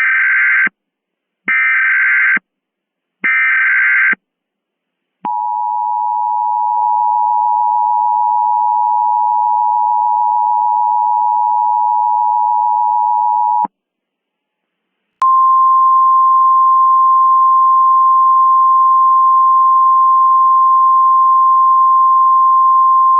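Emergency Alert System tones: three short screeching bursts of SAME digital data, then the two-tone EAS attention signal held for about eight seconds. After a brief silence, a single steady alert tone starts and holds.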